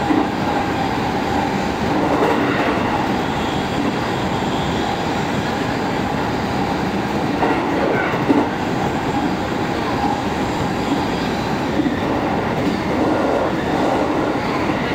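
Train running along the line, heard from inside the front passenger car: a steady rumble of wheels on rail, with one sharp knock about eight seconds in.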